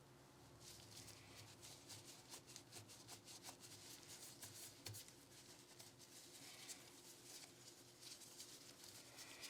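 Faint close-up handling sounds from a Glock 19 pistol being worked on for cleaning: many small clicks, light scrapes and rubbing, over a steady low hum.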